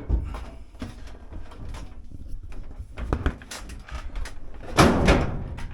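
Irregular knocks and clicks of a dryer's door being worked loose by hand, ending in a louder scraping rattle of metal and plastic near the end as it comes free.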